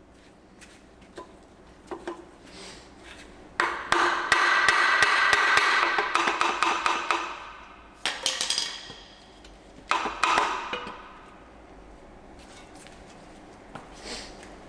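Metal parts and tools clattering and ringing: a few scattered knocks, then about four seconds of dense rattling clatter, then two shorter bursts.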